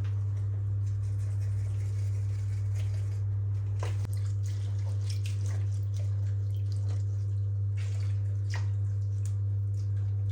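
Steady low hum, with faint scattered light clicks and taps.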